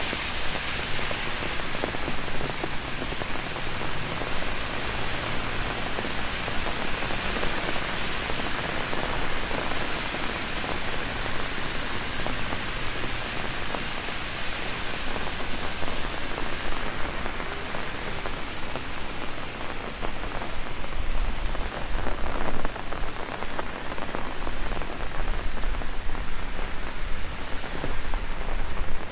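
Heavy rain falling on an umbrella held overhead: a dense, steady hiss of rain with many small drop hits on the canopy.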